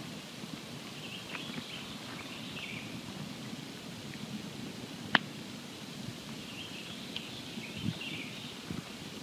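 Wood campfire burning with a steady low rumble and light crackle, one sharp pop about five seconds in and a smaller one near the end.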